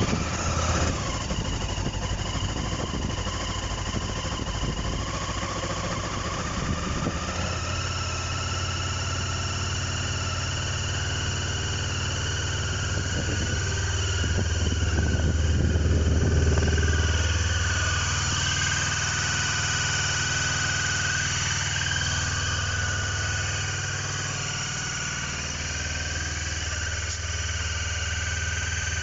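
Honda CB500 parallel-twin motorcycle engine idling just after a cold start, with a steady high whine over the engine note. It runs up a little about halfway through, then settles back to idle.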